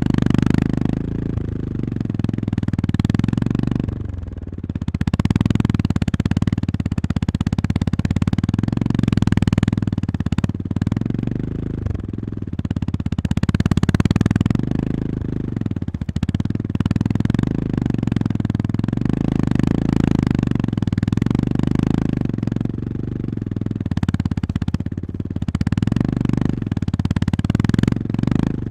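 Honda GB350S single-cylinder motorcycle engine pulling at low revs over a rough gravel forest road, a deep steady exhaust note that swells and eases with the throttle. About four seconds in the revs drop briefly before it pulls again.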